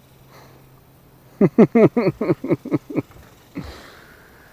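A man laughing, a quick run of about eight "ha" syllables, followed by a breathy exhale.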